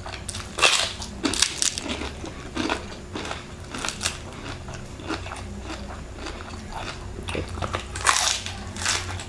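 Close-up crunching and chewing of crispy fried chicken skin: a run of loud crunches in the first few seconds, quieter chewing, then another burst of crunches near the end as a fresh bite is taken.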